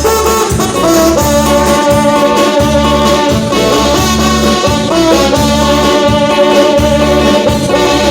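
Band music with horns holding long notes over a steady bass beat.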